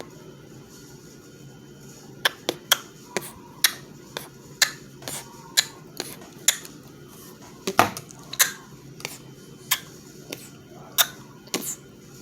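Irregular sharp clicks and taps of hard objects, about one or two a second, over a faint steady background hum.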